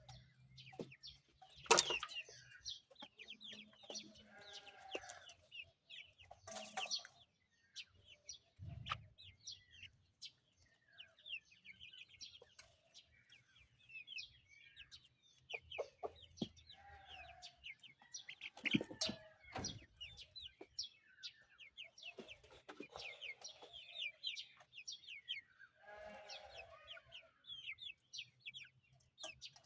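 Zagorsk Salmon chicken chicks peeping continuously in short, high, falling notes. Lower clucking calls come in now and then, and there are a few sharp knocks, the loudest about two seconds in.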